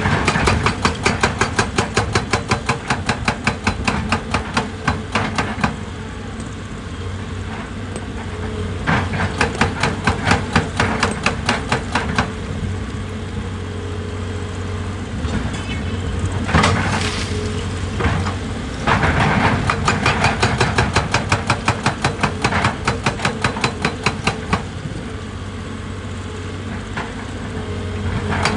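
A heavy machine's percussive hammer striking rock in three bursts of rapid blows, about ten a second, each lasting several seconds. A diesel engine runs steadily underneath, and there is a single heavier knock about two-thirds of the way through.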